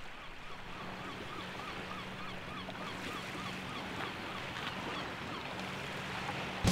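A bird calling over and over in short rising-and-falling notes, about four a second, for a few seconds over a faint background hiss.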